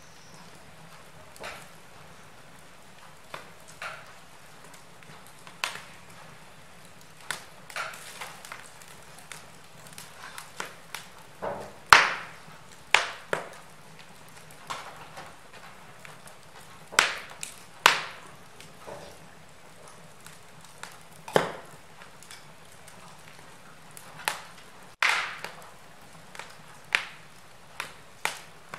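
Log fire in a fireplace crackling: irregular sharp pops and snaps, a few much louder than the rest, over a faint steady hiss.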